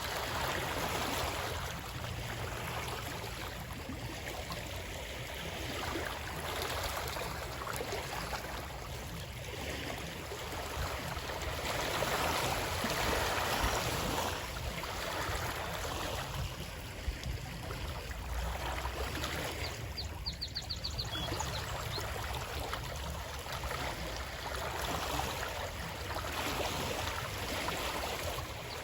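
Stream water flowing steadily, its rush swelling and easing every few seconds, with a brief run of high ticks about two-thirds of the way through.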